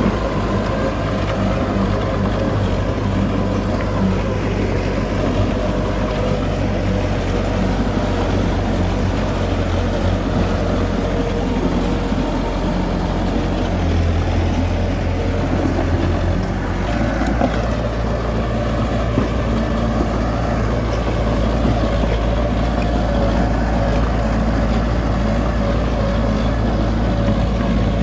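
Heavy diesel engine of earth-moving machinery running steadily, its low note shifting about two-thirds of the way through.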